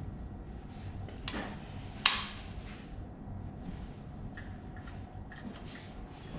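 Hand-tool work on a V8 engine during teardown: one sharp metal clank about two seconds in, the loudest sound, with a softer knock just before it and a few light clicks later, over a steady low hum.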